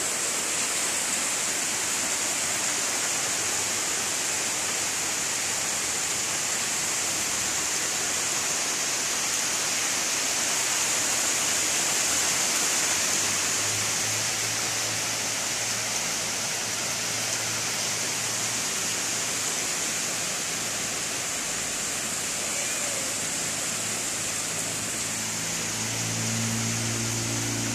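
Steady rain falling, an even hiss throughout. A low hum joins about halfway through and grows stronger near the end.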